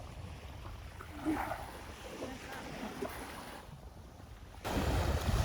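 Seaside ambience: surf and wind rumbling on the microphone, with a few faint brief sounds about a second in. The surf noise jumps suddenly louder near the end.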